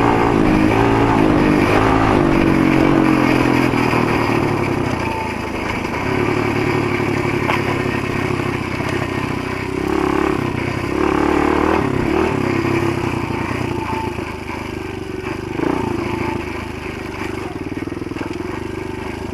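Motoland GF125 pit bike's 125 cc single-cylinder four-stroke engine running under way, its revs rising and falling with the throttle, loudest in the first few seconds and then easing off.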